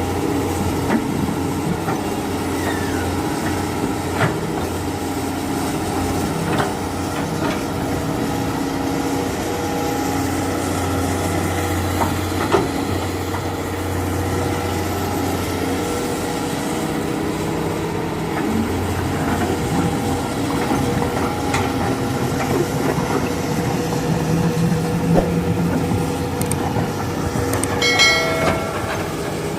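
Dump truck engine running steadily, with scattered clicks and knocks. A short, high-pitched tone sounds briefly near the end.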